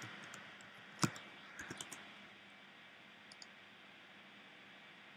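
A few clicks from operating a MacBook Pro: a sharp one about a second in, three softer ones just after, and two faint ones about halfway, over a low steady hiss.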